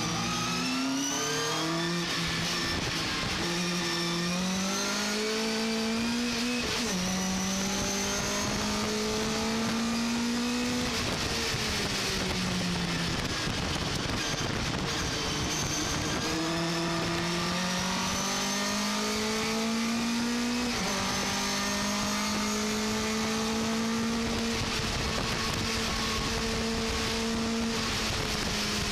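Racing pickup truck engine at full throttle, its pitch climbing steadily and dropping sharply at each upshift. About halfway through the pitch falls away as the driver lifts off, then it builds again through the gears.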